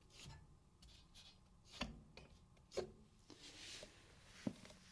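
Faint handling noises: a few light knocks and rubbing as the dehumidifier's fan motor, whose shaft is very stiff, is worked by hand.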